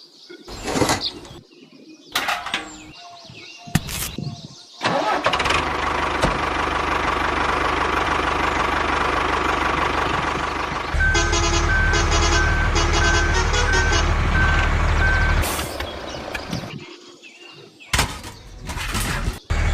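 Mini tractor engine running, in several short cut segments with knocks and clicks between them. For a few seconds in the middle a repeated beep sounds about once a second over the engine.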